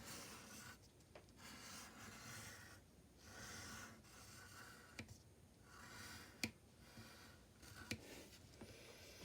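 Faint drawing strokes on paper: short scratchy passes of the drawing tool with brief pauses between them, and three sharp ticks in the second half, the middle one loudest.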